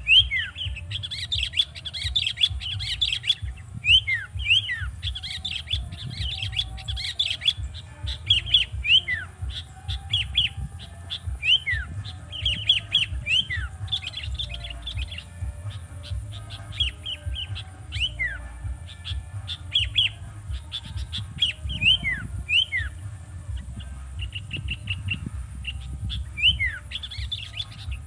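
Small birds chirping and calling: many short, falling chirps in quick succession throughout, over a low rumble and a faint, steady high tone.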